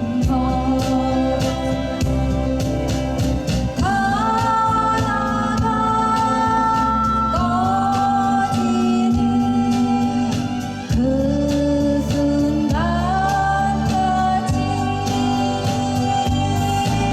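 A singer performing a slow folk song, holding long notes over a steady, evenly paced accompaniment.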